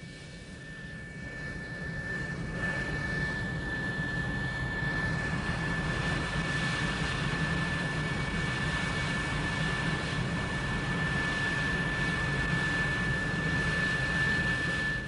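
Jet aircraft engine running with a steady high whine over its roar, growing louder over the first few seconds and then holding steady. It drops away abruptly at the very end.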